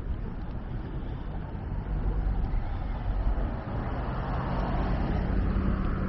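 Street traffic with a motor vehicle's engine growing louder about two seconds in, its steady hum carrying on to the end as it passes close by.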